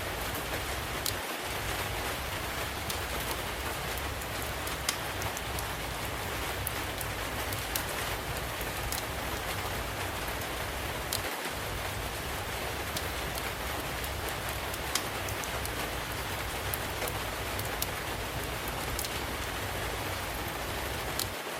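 Steady rain falling, mixed with the scattered sharp crackles and pops of a wood fire burning in a fireplace.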